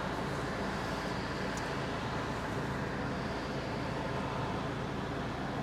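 Steady background rumble with a faint low hum, like distant road traffic, and no distinct events.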